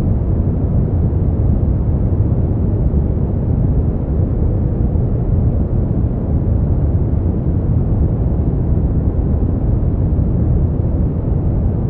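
Continuous synthetic sleep-aid noise, steady and unchanging, weighted heavily toward the low end: a deep rushing hiss with nothing in the high treble.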